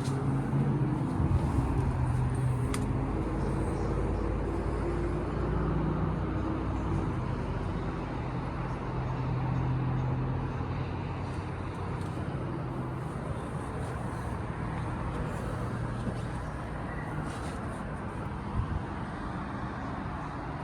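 A Cummins diesel engine in an International MV truck running steadily, louder over the first ten seconds and then settling to an even hum.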